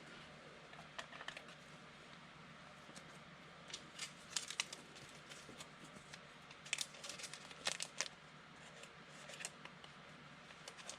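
Faint rustling and scattered small clicks of trading cards being handled and sorted, busiest in the middle.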